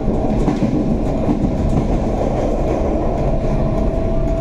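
Electric multiple-unit train running along the line, heard from the driver's cab: a steady low rumble of wheels on rails with some clickety-clack over the track. A faint thin whine comes and goes in the second half.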